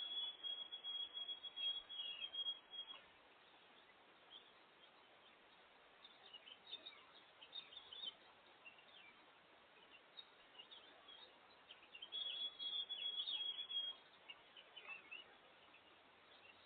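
Small songbirds chirping, with two long high trilled songs: one in the first few seconds and another about twelve seconds in, and scattered short chirps between them over a faint outdoor hiss.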